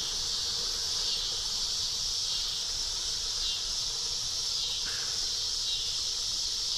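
Chorus of cicadas buzzing, a steady high drone.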